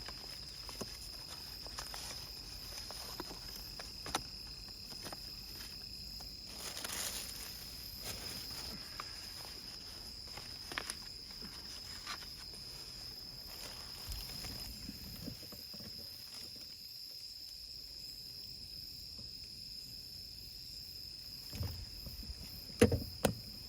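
An insect, most likely a cricket, singing a steady high-pitched trill, with scattered light clicks and rustles of handling and a few louder knocks near the end.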